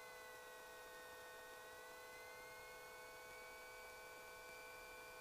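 Near silence: a faint electrical hum and whine on the aircraft's radio audio feed between transmissions, with one higher tone drifting slowly in pitch.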